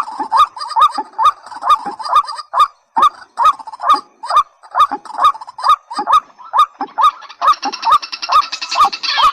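A rail repeats a short, hoarse, rising call note about twice a second. A buzzing chatter joins in near the end.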